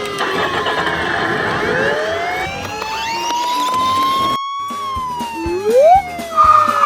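Police siren wailing, its pitch sliding slowly down and up, with a brief break partway through. Near the end come a quick rising whoop and a short high steady tone, the loudest moments.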